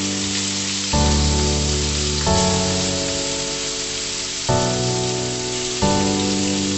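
Raw chicken pieces sizzling as they fry in hot oil with garlic, onion and chilies in a wok, a steady hiss. Over it plays background music of sustained chords that change about every second or two.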